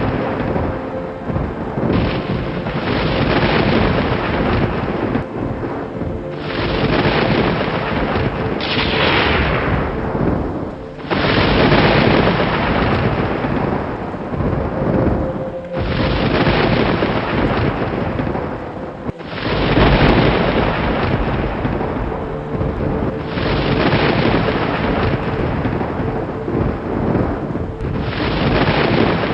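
Thunder rumbling over rain, in a string of long rolling swells that each start abruptly, about every four to five seconds.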